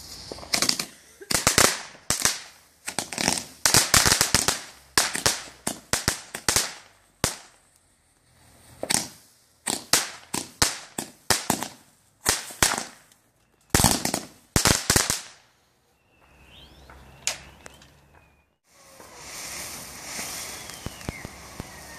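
Aerial consumer firework firing a rapid, irregular volley of sharp bangs and crackling reports for about fifteen seconds. Near the end a ground fountain starts up with a steady hiss of spraying sparks.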